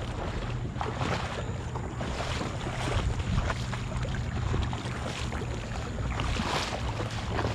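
Wind on the microphone over shallow water at the shore, with a steady low rumble and scattered small knocks and rustles.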